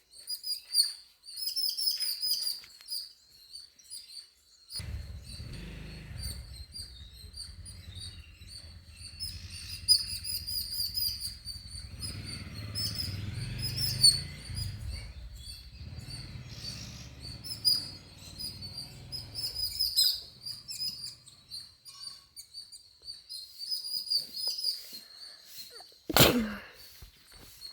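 Small birds chirping: quick, repeated high-pitched chirps keep coming throughout. A low rumble sits underneath from about five seconds in until about twenty, and a single loud sound falling sharply in pitch cuts in near the end.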